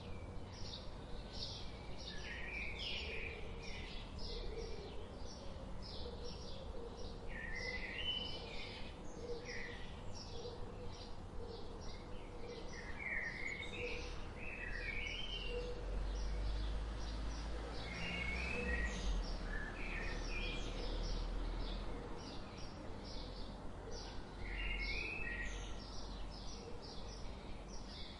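Small birds chirping rapidly and continually, with short zigzag calls among the chirps, over a steady low rumble that swells for a few seconds past the middle.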